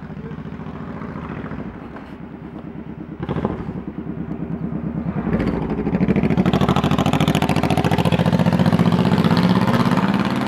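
2012 Ford Mustang GT's 5.0-litre V8 idling with a steady, even beat. It grows louder from about six seconds in.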